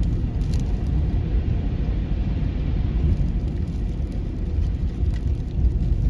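A car driving at road speed, heard from inside the cabin: a steady low rumble of tyre, road and engine noise.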